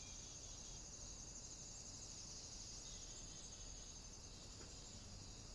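Crickets chirping: a faint, steady high-pitched trill.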